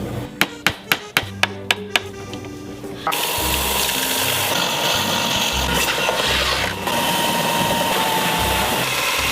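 About seven sharp taps in quick succession, then a power tool starts and runs steadily, polishing the metal of a splitting maul. Background music plays throughout.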